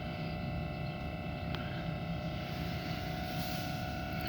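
Steady electrical and ventilation hum inside a stationary train carriage, with several fixed whining tones over a low rumble, and a faint click about a second and a half in.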